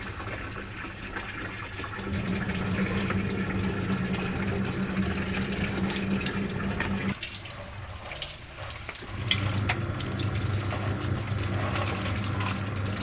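Running water splashing during washing, with a steady low hum underneath that drops out for about two seconds past the middle.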